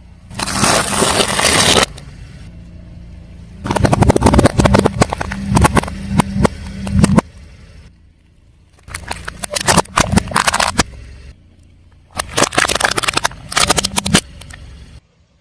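A car tyre rolling over and crushing brittle objects, in four separate bursts of crackling and snapping, the longest about three and a half seconds. The car's engine runs low and steady underneath.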